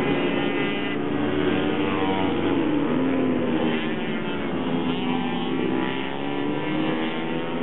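Several small racing minibike engines running hard on track at once, their overlapping notes rising and falling as the riders accelerate and shift.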